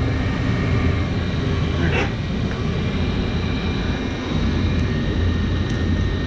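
Rheem gas furnace running with a steady low drone. A brief scrape or rustle about two seconds in.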